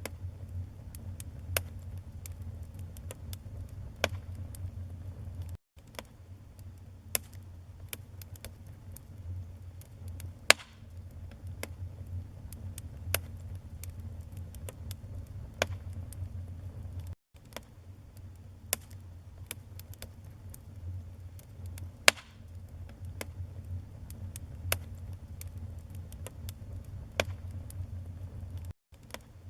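Wood fire burning, with irregular sharp crackles and pops of the burning logs over a low, steady rumble of flames. The sound cuts out for an instant three times.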